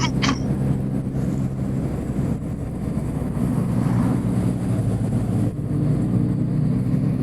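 Motorcycle engine running steadily under way over road and wind noise; the engine note dips and shifts about five and a half seconds in.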